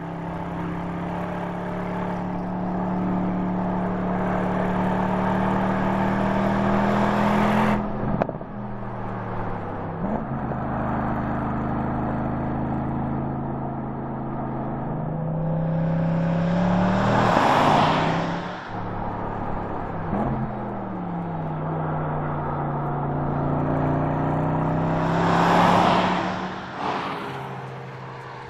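Porsche Panamera 4 E-Hybrid's 2.9-litre twin-turbo V6 running at steady revs. Later the car passes by twice, each pass rising to a loud rush of engine and tyre noise, with the engine note dropping in pitch as it moves away.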